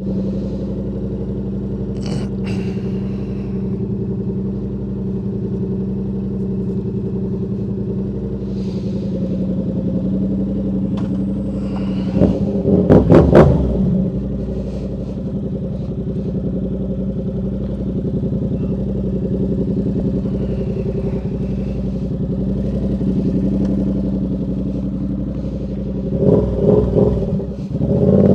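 Motorcycle engine running steadily, with a quick series of throttle blips about halfway through and again near the end.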